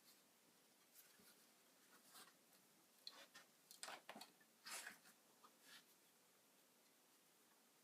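Near silence: room tone with a few faint, short clicks and rustles, most of them between three and six seconds in.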